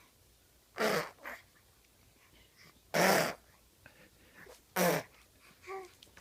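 A baby making three short, breathy, noisy vocal sounds about two seconds apart, with a fainter small voiced sound near the end.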